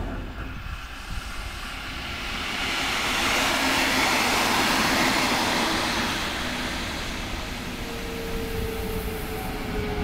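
A regional train of coaches rolls past at speed, its rolling noise swelling to a peak mid-way. Near the end a steady whine comes in as the Siemens class 182 Taurus electric locomotive pushing at the rear goes by.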